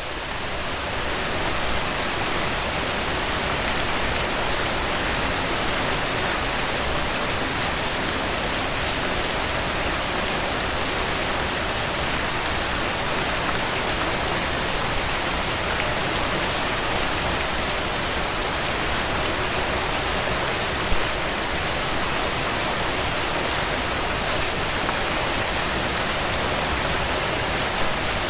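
Steady rain falling on a tent, a dense even hiss with fine drop ticks. It fades in over the first couple of seconds, and there is one sharper click about two-thirds of the way through.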